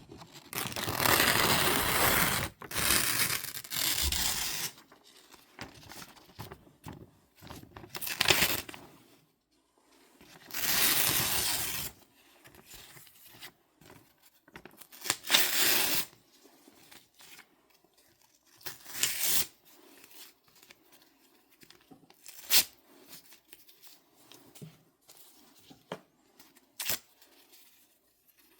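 A paper résumé being torn by hand: a few long rips of a second or two each in the first half, then shorter, sharper tears with quiet gaps between them.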